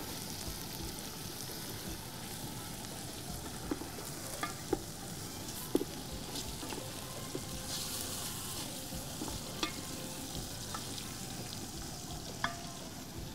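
Chicken pieces sautéing on browned onions in a large aluminium pot, sizzling steadily as a wooden spoon stirs them. The spoon knocks sharply against the pot now and then, about six times.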